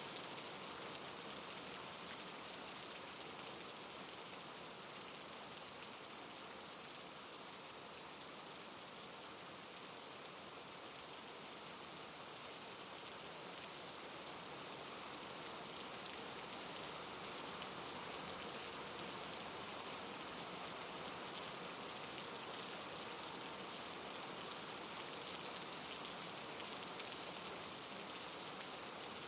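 Steady soft rainfall, an even patter of raindrops on a surface, with no thunder or other events.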